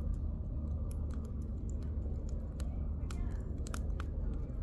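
Firewood burning in a campfire, crackling with sharp, irregular pops over a low steady rumble.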